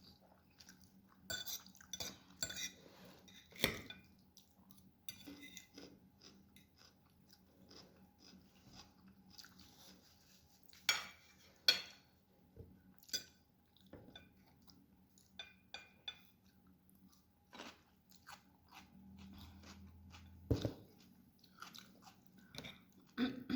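A person eating close to the microphone: chewing and crunching food, with irregular sharp clicks and occasional clinks of a utensil against a dish.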